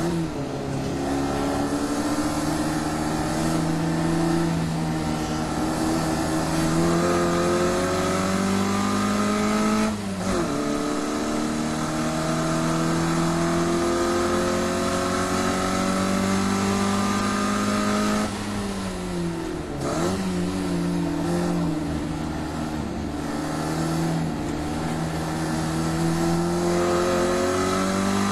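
Classic Mini Cooper's 1380cc A-series four-cylinder on a Weber 45 carburettor, running hard on the race track. The revs climb slowly through long pulls and drop sharply about ten seconds in, again twice around eighteen to twenty seconds, and near the end, as it changes gear or lifts for corners.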